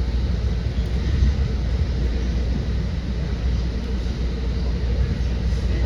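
Commuter train running along the line, heard from inside a passenger coach: a steady low rumble of wheels on rail, with no single knock or change standing out.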